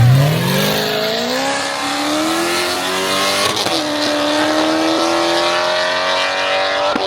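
Car engine revving hard as the car accelerates away. Its pitch climbs steeply over the first second or so, then holds high and keeps creeping upward, over a loud hiss of exhaust and tyres.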